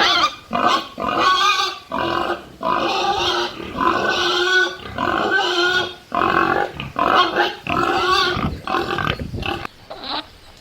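Giant panda vocalizing: a rapid series of about a dozen short, harsh calls with brief pauses between them.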